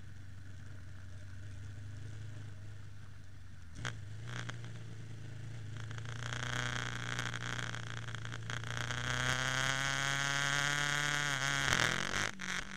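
Ducati 998's 90-degree V-twin engine heard from the rider's seat: running low and steady at first, a short knock about four seconds in, then the revs climbing for several seconds before a brief drop near the end.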